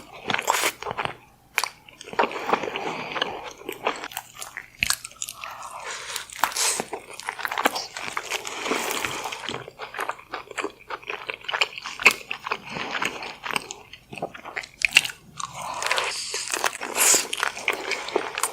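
Close-miked eating of king crab: shells cracking and crunching between bites, with chewing in between, in many sharp irregular cracks.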